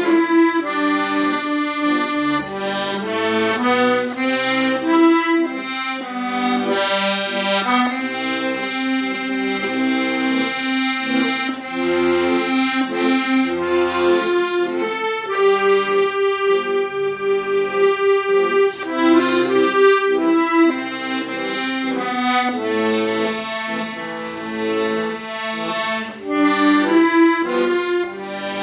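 Accordion playing a slow melody with held chords and bass notes underneath.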